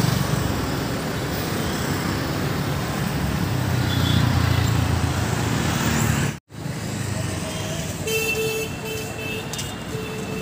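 Busy city-street traffic: vehicle engines and road noise, cut by a brief dropout about six seconds in. Near the end a vehicle horn toots several times in short repeated blasts.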